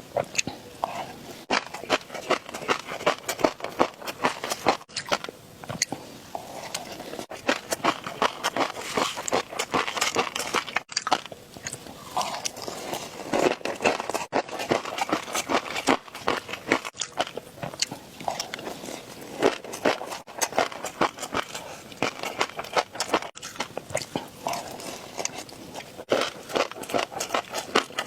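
Close-miked eating: rapid, dense crunching and chewing, with bites and mouth clicks following one after another.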